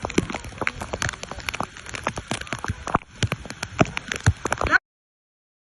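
Rapid, irregular clicks and taps, cutting off suddenly about five seconds in.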